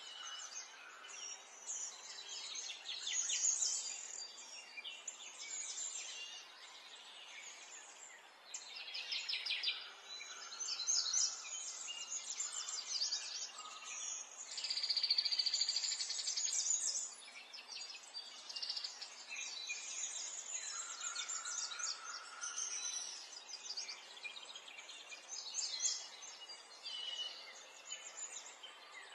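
Small birds chirping and trilling in quick, repeated high phrases over a faint steady background hiss.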